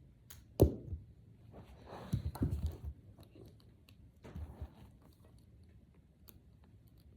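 Small plastic interlocking discs (Brain Flakes) being handled and pushed together: a sharp knock about half a second in, then bursts of clicking and rustling around two seconds in and again briefly in the middle.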